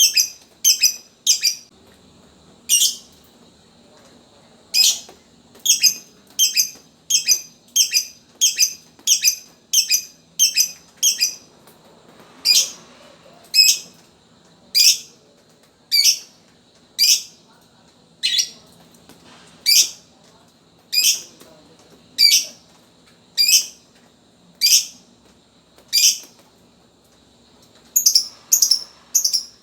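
Lovebird calling in loud, sharp, high chirps, repeated about once a second and faster, nearly two a second, for a few seconds in the first half.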